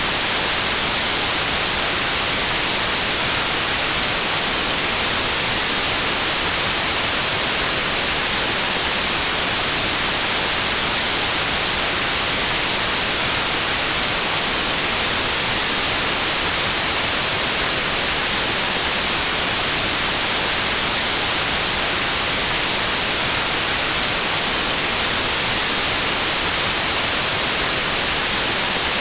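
Steady white noise: an even hiss, brightest in the high end, with no change in level.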